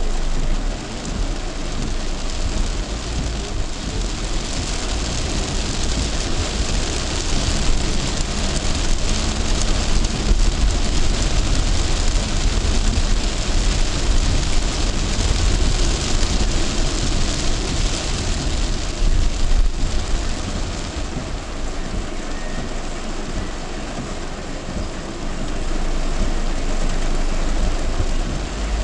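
Torrential rain pouring onto a moving car, over a steady low rumble of the car driving on the wet road.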